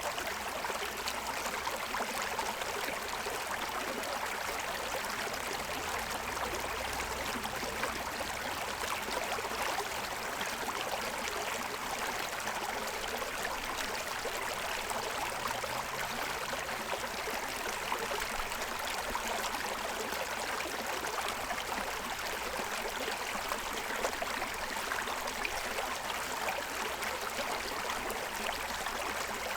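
A shallow stream running steadily over the stones of its bed, the water babbling evenly.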